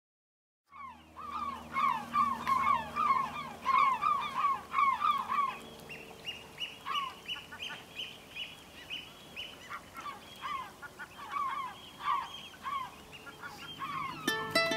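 Birds calling, starting about a second in: quick runs of short, falling calls, then a higher, repeated note, with plucked-string music starting right at the end.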